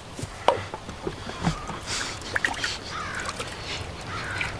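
A few knocks and clinks of a metal cup at a hand water pump, with water splashing as a man drinks.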